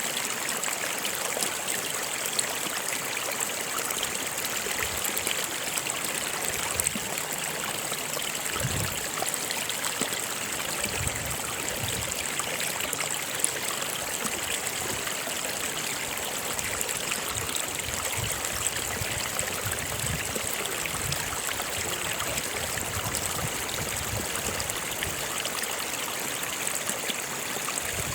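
A stream flowing steadily: a continuous rush of water with irregular low gurgles.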